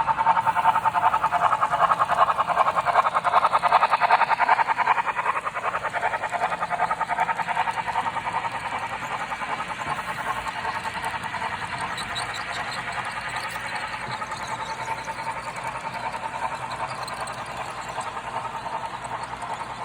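HO scale model train running on its track with a fast, even rattle. It is loudest in the first few seconds, then drops lower and carries on steadily.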